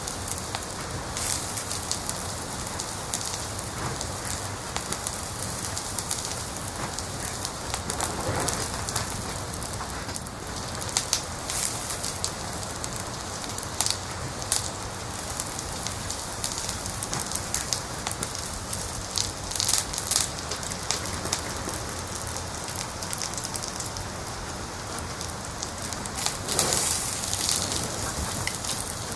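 Wood fire in a fireplace crackling: a steady hiss with frequent irregular sharp pops, a few of them louder.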